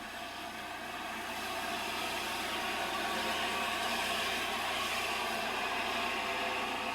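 Steam locomotive Flying Scotsman hissing steadily, growing slowly louder.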